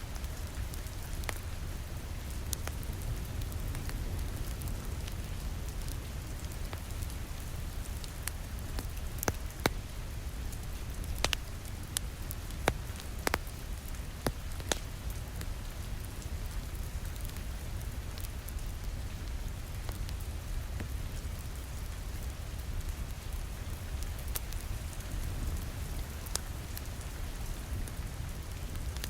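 Steady rain on a window, with a low rumble underneath, mixed with a crackling wood fire in a fireplace. The fire gives scattered sharp pops, most of them about a third to halfway through.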